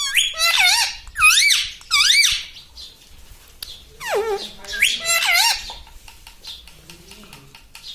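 Pet ring-necked parakeet giving high, squeaky, wavering calls in two bouts, the second starting about four seconds in.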